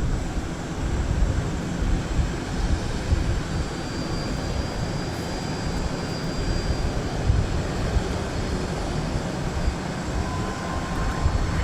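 Jet aircraft engines running on the airport apron: a steady rumble and rush of noise, with a faint high whine now and then.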